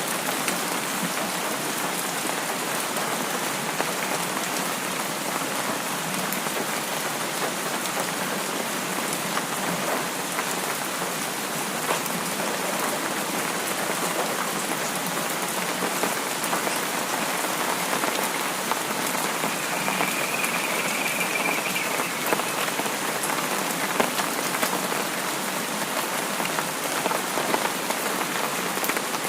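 Steady rain falling on a surface, an even hiss scattered with sharp individual drop ticks. A faint high tone shows briefly about two-thirds of the way in.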